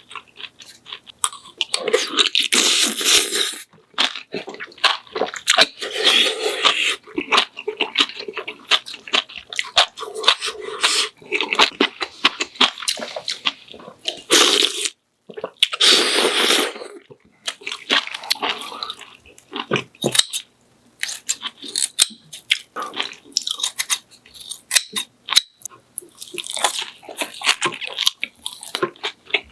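Close-miked eating: a person chewing with wet smacking and crunching, dense little clicks from the mouth, broken by a few longer wet noisy stretches and brief pauses.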